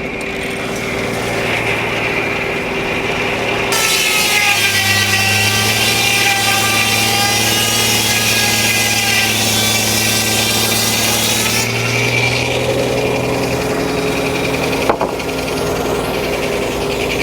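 Frick No. 1 circular sawmill cutting a log: about four seconds in the blade enters the wood and cuts for about eight seconds, a loud ringing saw noise over the steady running of the mill's power unit. A single sharp knock near the end.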